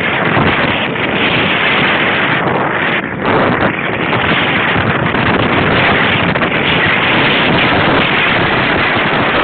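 Loud, steady wind noise buffeting the microphone of a Looxcie 2 wearable camera while riding a bicycle, dipping briefly about three seconds in.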